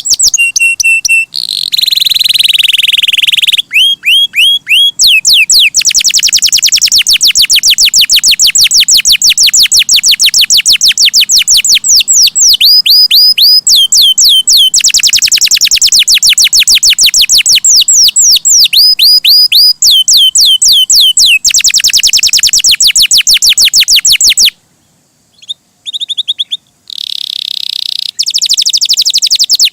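Domestic canary singing a long, loud song of rapid trills and repeated whistled phrases. It breaks off briefly about 25 seconds in, then picks up again.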